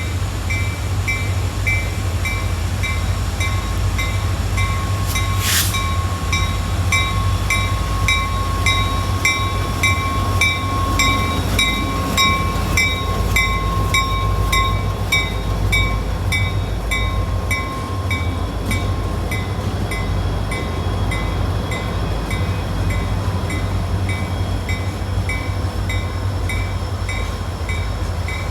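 Train rolling past with a steady low rumble and a long high tone like wheel squeal for much of the time. An even, repeating ringing runs at about one and a half strokes a second, and there is one sharp crack about five seconds in.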